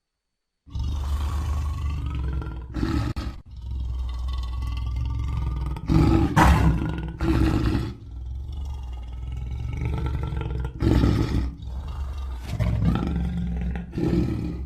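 Giant bear creature sound effect: a long, deep, continuous roaring growl that swells loudest about six and eleven seconds in and cuts off suddenly at the end.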